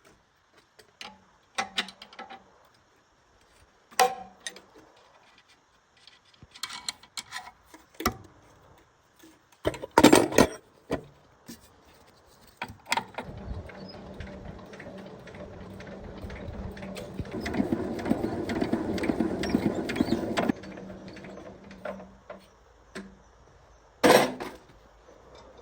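Tools and metal parts clicking and knocking while they are handled. A small motor-driven tool then runs steadily for about seven seconds, grows louder and stops abruptly, followed by one more knock.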